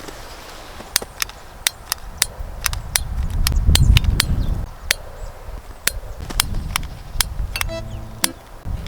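Gusty wind on the microphone, its rumble swelling to its loudest in the middle, with many sharp irregular clicks and knocks.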